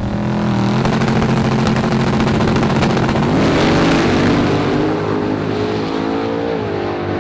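Race car's engine at full throttle on a drag-strip pass, its pitch climbing in steps, then dropping sharply near the end as it shifts gear and climbing again.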